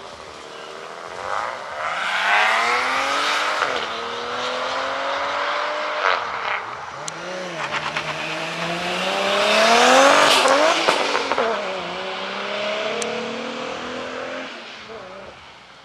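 A performance car's engine accelerating hard, its pitch climbing and dropping several times at the gear changes, loudest about ten seconds in, then fading as it pulls away.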